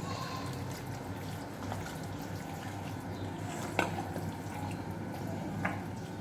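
Two short, light clicks of kitchen utensils or dishes, one near the middle and one near the end, over a steady low hum.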